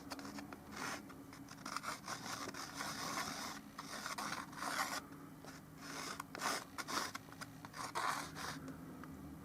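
Bristle brush dragging oil paint across the painting surface in a series of short, scratchy strokes at an irregular pace.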